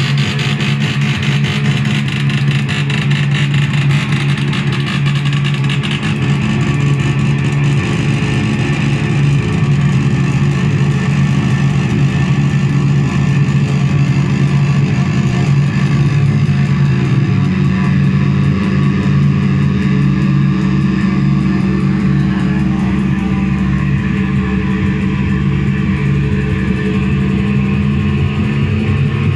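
Noise music from a handmade synthesizer: a loud, dense, unbroken buzzing drone with a strong low hum beneath it. The upper hiss thins out about six seconds in.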